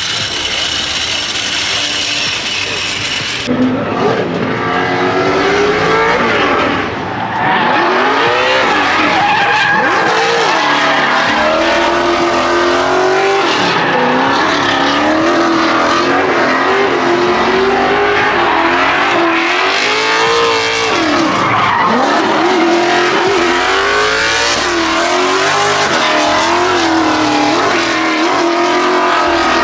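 Drift cars at full throttle, engine notes rising and falling constantly with the throttle over steady tire squeal, starting abruptly about three seconds in after a brief clicky mechanical sound.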